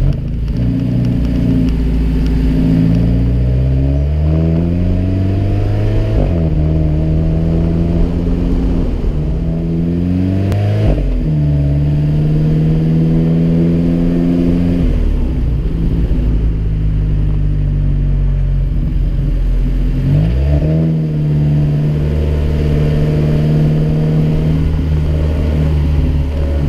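Alfa Romeo 4C's turbocharged 1.75-litre four-cylinder engine accelerating, its pitch climbing and then dropping at two quick gear changes in the first six seconds. It then runs at steady town-speed revs, with the revs dropping and picking up again a few times, heard from outside the car's body.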